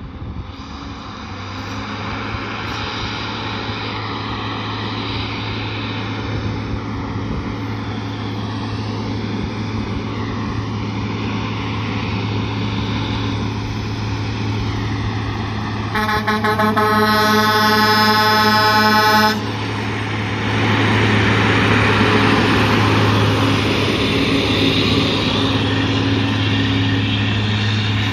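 Peterbilt 379 semi truck's diesel engine running steadily and growing louder, with one long air-horn blast of about three seconds a little past the middle.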